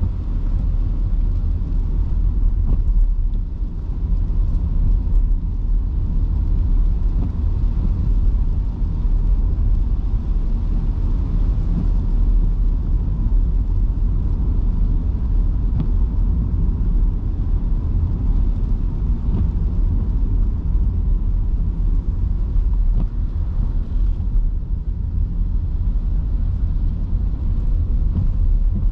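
Electric car driving on wet city streets in heavy rain, a steady low road rumble with tyre and water noise and a faint steady whine.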